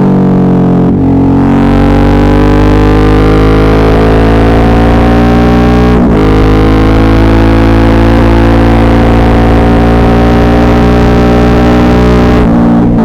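Suzuki V-Strom 650's V-twin engine running under way, its pitch slowly falling. The sound breaks briefly about six seconds in and again near the end, as gears change.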